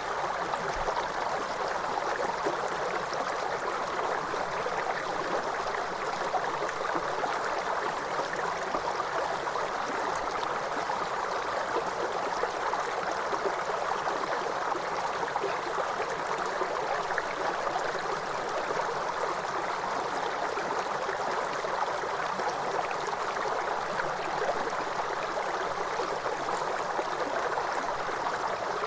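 Waterfall water rushing in a steady, unbroken flow.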